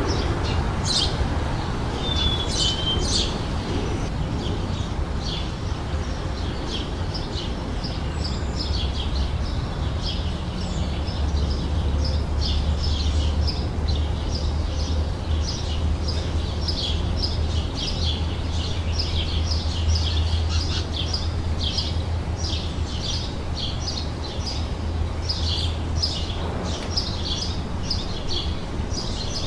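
Small songbirds chirping in quick, dense, repeated high notes, with a low steady rumble underneath that swells through the middle and fades near the end.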